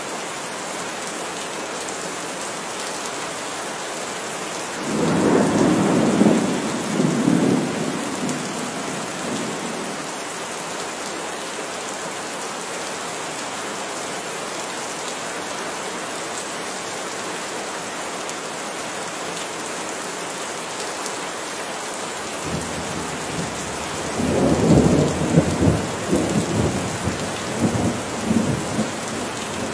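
Steady rain falling, with two rolls of thunder: one about five seconds in that rumbles for a few seconds, and a second, longer, crackling roll starting about 24 seconds in.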